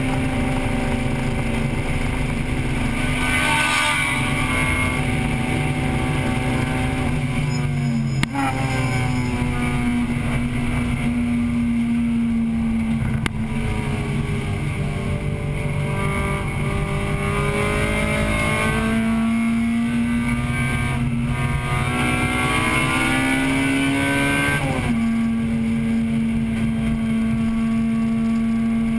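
Engine of a 1998 Acura Integra Type-R, a 1.8-litre VTEC four-cylinder, running hard at high revs as heard from inside the race car's cabin. Its pitch changes abruptly about eight seconds in, falls and rises through the middle, and jumps back to a steady high pitch near the end, with two sharp clicks along the way.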